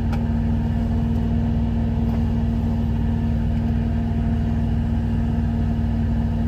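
Steady low drone of an idling truck engine, heard from inside the cab, with a constant hum running through it.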